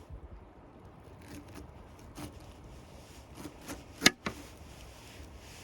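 A few scattered sharp clicks and knocks over a low steady rumble, one much louder than the rest about four seconds in, followed quickly by a smaller one.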